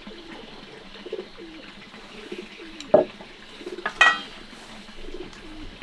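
Low, repeated bird calls. A sharp knock comes about three seconds in, and a second knock with a brief ring comes about a second later.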